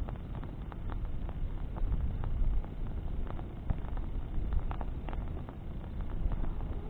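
Bonfire of branches burning, with frequent irregular sharp crackles and pops over a steady low rumble.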